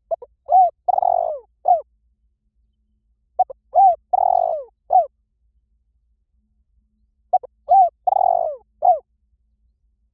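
Spotted dove cooing: three identical phrases about three and a half seconds apart, each a short note, a bent coo, one longer falling coo and a closing note.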